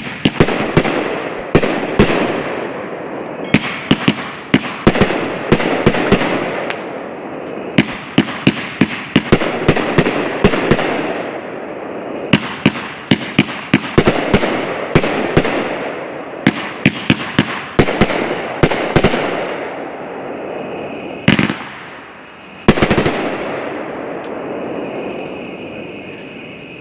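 A 500-gram, 30-shot consumer firework cake firing its vertical tubes of gold titanium willow shells: a rapid string of sharp reports from the launches and loud breaks, several a second, with a rushing, crackling hiss between them. The firing thins out in the last few seconds, with one lone report near the end.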